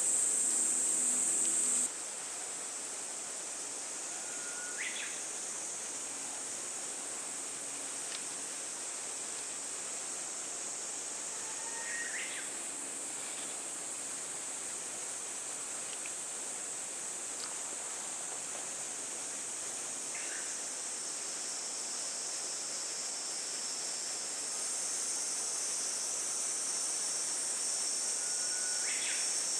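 Steady high-pitched chorus of insects, with a few short rising chirps every several seconds.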